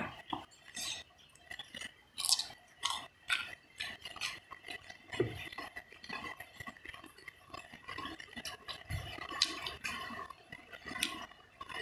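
Close-up eating sounds: chewing of a hand-eaten meal of minced fish laab with raw long beans and cucumber, with scattered small clicks and taps from fingers and the plate.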